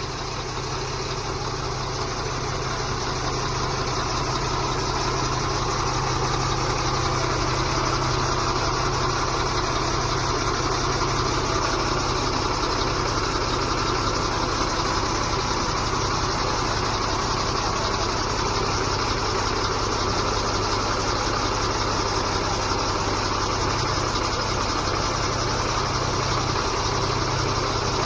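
Diesel engine of a HOWO 8x4 dump truck idling steadily with a low hum, growing slightly louder over the first few seconds.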